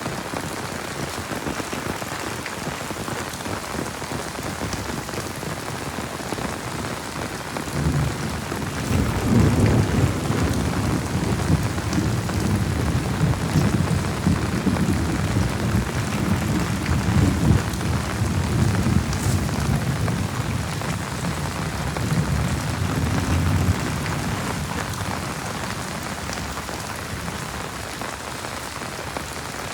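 Heavy steady rain, with a long low rolling rumble of thunder that builds about a quarter of the way in, runs for some fifteen seconds and fades away well before the end.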